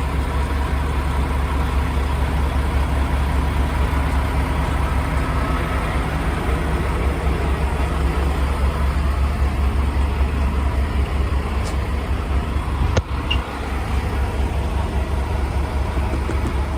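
Semi truck's diesel engine idling: a steady low rumble with an even pulse. A single sharp click about 13 seconds in.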